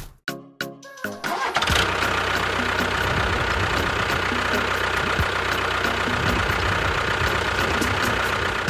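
An engine starts about a second in and runs steadily with a low rumble, stopping suddenly at the end.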